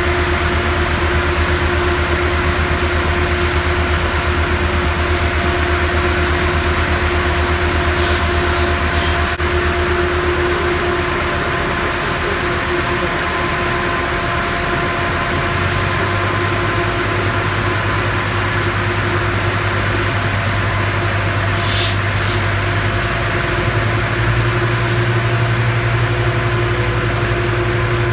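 Passenger train's diesel locomotive running steadily at the station, its engine note stepping up about halfway through and again near the end, with a few short hisses of air.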